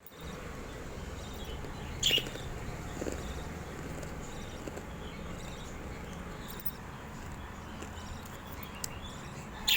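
Pet lovebird giving two short, sharp chirps, about two seconds in and again near the end, over steady low background noise.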